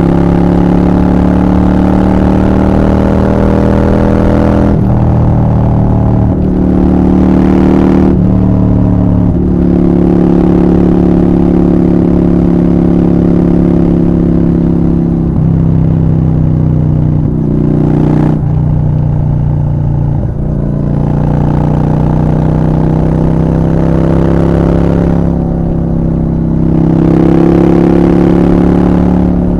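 Honda Shadow 750 V-twin running through a Black Widow aftermarket exhaust under way, held at fairly high revs. Its note changes abruptly several times as the throttle is opened and closed and the gears change.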